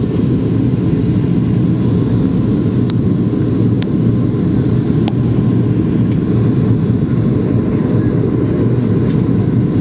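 Steady cabin noise of a Boeing 737-800 in flight, heard from a rear window seat: an even, low rumble of its CFM56 engines and the airflow past the fuselage. A few faint clicks sound over it.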